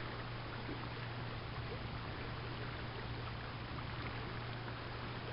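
Rain-swollen backyard creek rushing steadily, an even wash of running water with no distinct splashes.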